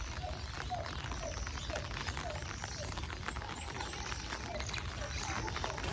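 An animal calling in an evenly spaced series of short chirps, about two a second, with fainter higher chirps and scattered small clicks over a low rumble.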